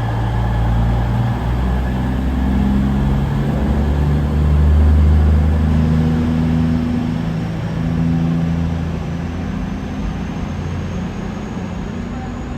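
Diesel train engine running at the platform, its note stepping up and down in pitch as it works, loudest about five seconds in and then slowly fading away. A faint high whine rises through the second half.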